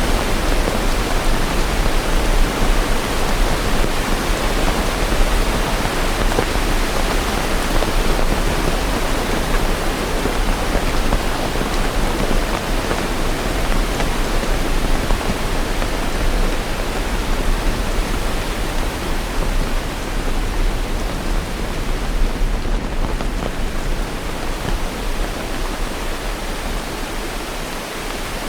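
Steady rain falling: an even, unbroken hiss with a low rumble beneath it.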